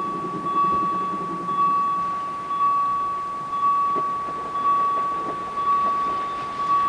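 Electronic warning signal: a single steady high beep that swells about once a second. A low rumble fades out in the first second or so.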